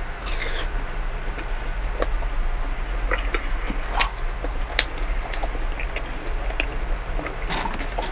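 Chewing a fried cheese ball, with scattered small clicks and taps from handling a plastic sauce cup and a cardboard chicken box, over a steady low hum.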